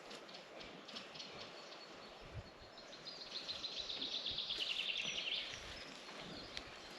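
A songbird sings one fast, slightly falling trill, starting about three seconds in and lasting about two and a half seconds, over faint outdoor background with scattered soft clicks and low thuds.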